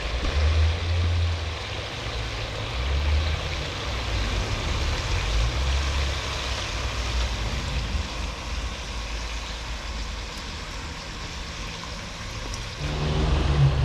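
Steady hiss of birds frying in oil in a pot, with wind rumbling on the microphone.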